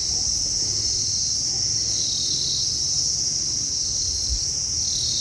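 Steady, high-pitched chorus of insects in the forest, swelling and easing gently every couple of seconds.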